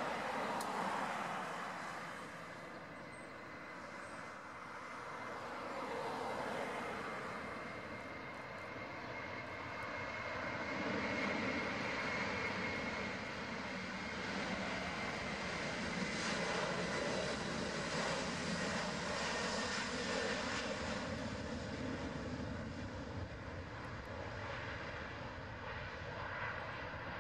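Airbus A330-200's twin General Electric CF6-80E1 turbofans at takeoff thrust: a continuous rush of jet noise with a steady high whine, growing louder about ten seconds in and easing slightly near the end as the airliner rolls and climbs away.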